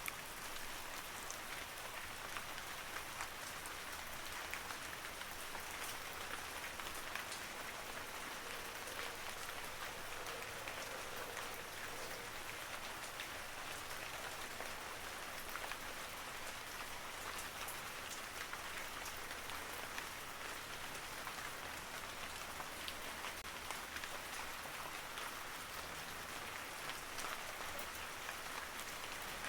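Steady rain falling, an even hiss with many small drop ticks throughout and no thunder.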